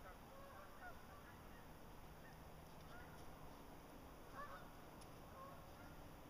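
Faint, distant birds calling: many short pitched calls scattered through, over a quiet background hiss.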